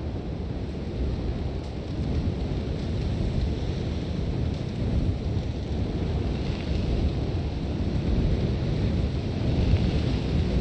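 Sandstorm wind blowing in strong, steady gusts: a deep rumble with a fainter hiss of blown sand above it, swelling slightly about halfway through and again near the end.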